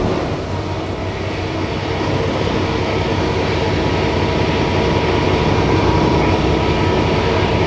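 Semi-truck tractor's diesel engine idling steadily just after being started, slowly growing a little louder.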